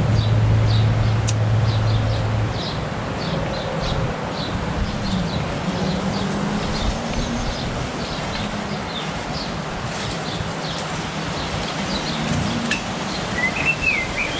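Garden birds chirping over and over, about two short high chirps a second, over a steady rushing background. A low steady hum runs through the first couple of seconds, and a brief warbling call comes near the end.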